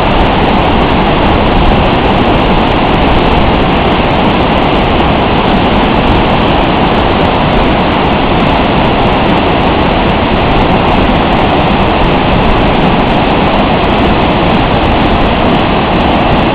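Waterfall pouring down, a loud steady roar of falling water that does not change.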